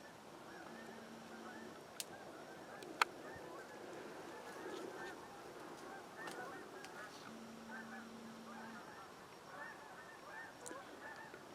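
Many birds calling faintly, short overlapping honk-like calls that keep up throughout. Two sharp snaps stand out, about two seconds in and again a second later.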